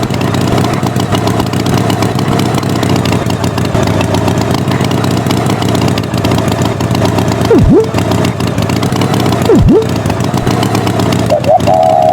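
An engine running steadily at a loud level. Two quick tones dive sharply in pitch and snap back up, about two seconds apart, past the middle.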